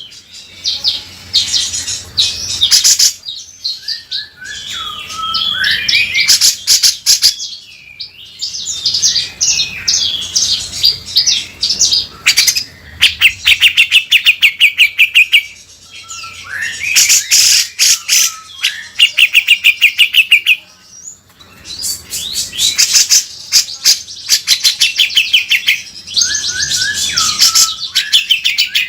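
Grey-cheeked bulbul (cucak jenggot) singing loudly in bursts of rapid, harsh chattering trills, about ten notes a second, broken by short whistled glides and a few brief pauses.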